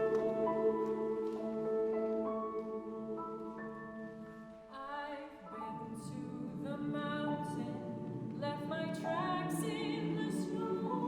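Choir singing with instrumental accompaniment. Sustained instrumental chords fade out over the first few seconds, and the choir's voices enter about five seconds in.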